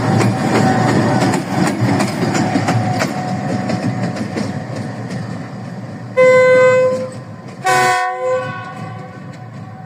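GEU-20 diesel locomotive rolling past, its engine rumbling and its wheels clicking over the rail joints as the sound fades away. About six seconds in the horn sounds two blasts, the first longer, the second shorter and a moment later.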